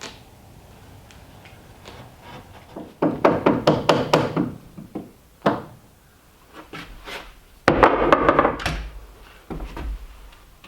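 Wooden knocks and thuds from timber-frame carpentry: a quick run of sharp knocks about three seconds in, a single knock, then another heavy cluster of thuds and knocks near the eight-second mark.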